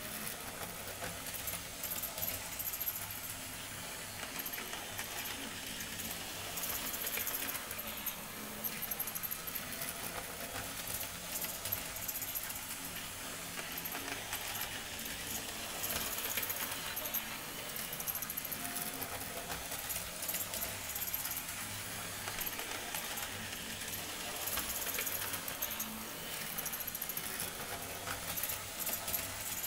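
Model railway train running on the track: a steady low motor hum with continual light metallic clicking and rattling from the wheels, growing a little louder now and then.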